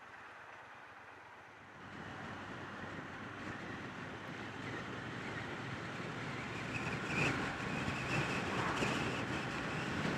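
Triumph Bonneville T120 parallel-twin motorcycle under way, its engine mixed with wind and road noise, getting louder from about two seconds in as it picks up speed.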